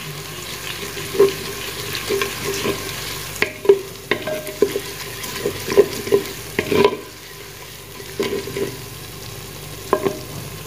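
Sliced onions and ginger-garlic paste sizzling in hot oil in a clay pot, stirred with a spoon that scrapes and knocks against the pot at irregular intervals. The steady sizzle goes on through a short quieter pause in the stirring about seven seconds in. This is the stage of frying the paste with the browned onions.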